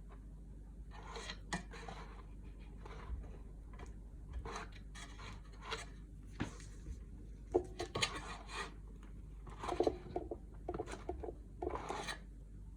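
Irregular scraping and rubbing strokes of hand work on a subwoofer being taken apart, over a steady low hum.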